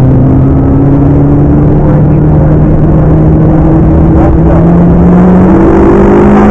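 McLaren MP4-12C's twin-turbo V8 pulling under steady acceleration, its pitch rising slowly and evenly as the revs climb, over road and wind noise.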